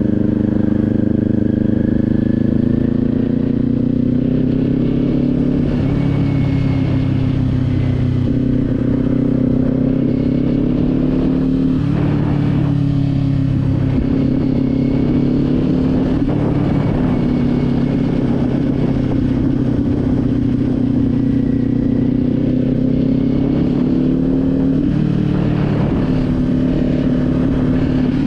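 Motorcycle engine running while riding, its note rising and falling a few times as the rider accelerates and eases off, over a steady rush of wind noise.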